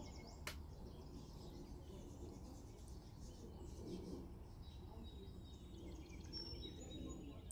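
Faint background noise with a few faint, high bird chirps and a single sharp click about half a second in.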